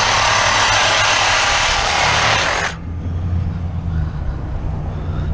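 A power tool cutting into a piece of scrap, running steadily and cutting off sharply about two and a half seconds in. A steady low hum runs underneath throughout.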